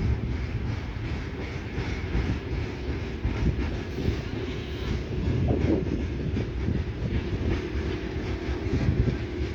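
Train running on rails, its wheels clattering over the rail joints with a steady rumble.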